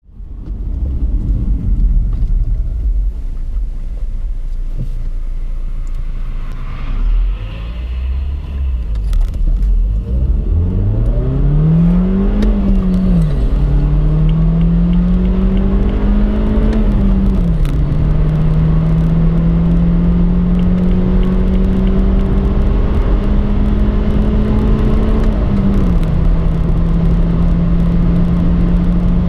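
BMW 116i F20's N13 1.6-litre turbocharged four-cylinder under full-throttle acceleration, heard from inside the cabin. It starts as a low rumble, then the engine note climbs with revs and drops sharply at each of three upshifts in the second half, with steady road and wind noise underneath.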